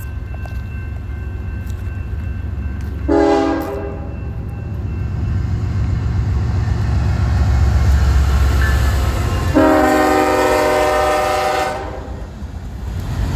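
BNSF freight train's diesel locomotives approaching and passing close by, their low engine rumble growing louder as they go past. The locomotive's multi-tone air horn sounds twice: a short blast about three seconds in and a longer one of about two seconds near the end.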